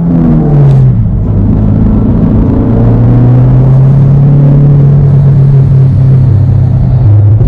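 Engine of a K-swapped Toyota MR2 SW20, a Honda K-series four-cylinder, running under way, heard from inside the cabin. Its note drops in pitch over the first second, then holds steady at a cruise.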